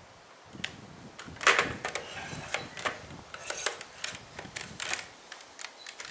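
Irregular light clicks and knocks of hard objects being handled and set down, the loudest knock about one and a half seconds in.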